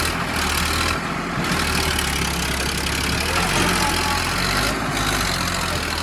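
Sonalika 745 DI tractor's diesel engine running steadily, a low engine note under a constant rushing noise.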